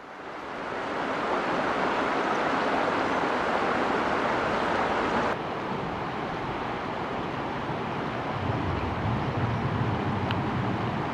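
Steady rushing of a mountain valley stream, which shifts abruptly about five seconds in. A low rumble joins near the end.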